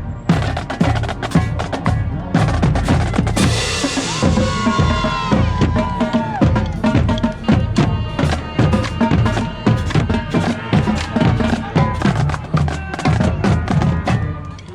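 Marching band drumline playing a parade cadence: snare and bass drums in quick, steady strokes, with a crash about three and a half seconds in.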